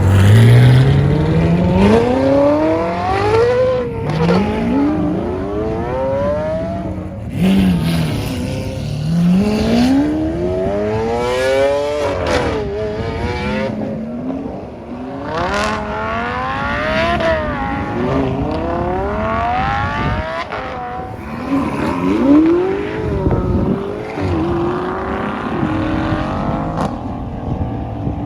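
Exotic sports car engines accelerating hard out of a car meet, one after another. Each one runs up in pitch through the gears with a drop at each shift, about a dozen rising sweeps in all.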